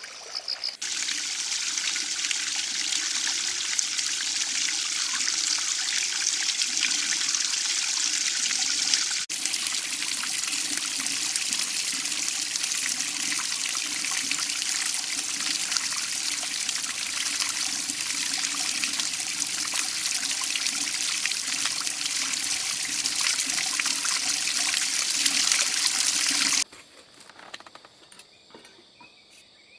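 Running water, a steady loud trickling rush, in two stretches split by a brief break about nine seconds in. It cuts off abruptly near the end, leaving faint crickets chirping.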